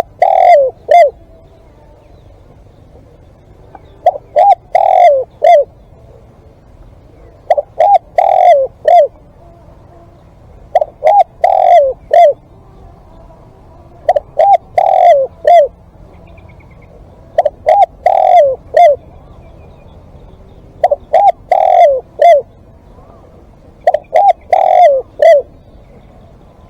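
Spotted dove cooing loudly: a phrase of several short coos around one longer, falling note, repeated about every three and a half seconds, eight times in all.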